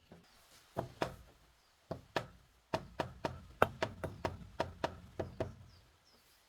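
Wood being chopped with a blade: a run of about fifteen sharp strikes, coming quickest, about three a second, in the middle, then stopping.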